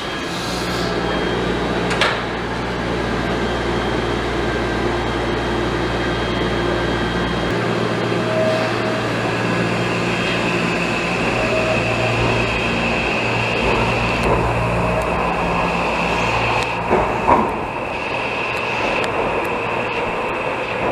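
Train running, a steady mechanical hum with rolling noise; a thin high whine joins about halfway through, with a sharp knock about two seconds in and another near the end.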